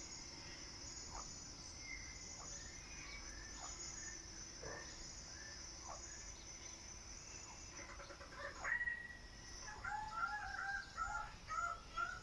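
Raggiana bird-of-paradise calling during its display: a quick series of short, loud, repeated calls that starts about two-thirds of the way in, after a few faint scattered calls. A steady high-pitched background sound runs underneath.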